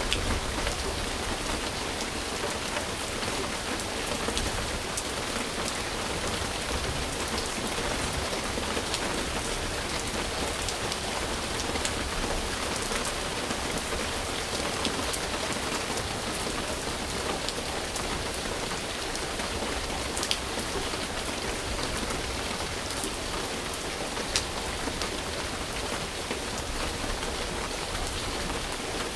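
Steady rain falling, an even hiss of drops with scattered sharper drop hits, two of them louder in the second half.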